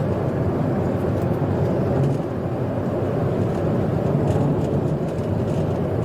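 Steady low rumble of a moving vehicle, engine and road noise with no sharp events.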